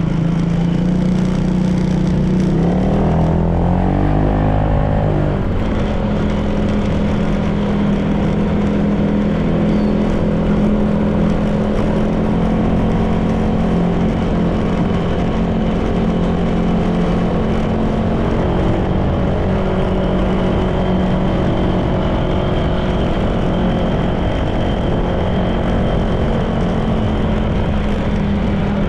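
Honda PCX 160 scooter's single-cylinder engine running steadily under way, with a rising pitch as it accelerates about three to five seconds in, over steady road noise.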